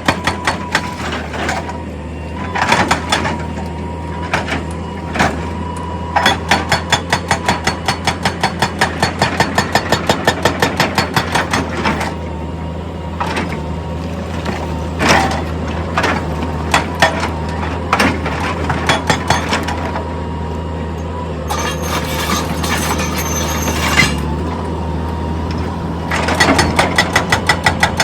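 Excavator's diesel engine running steadily under load, with stretches of rapid, regular hammering impacts at about four or five a second and a few single heavier knocks. A hiss comes about three quarters of the way through.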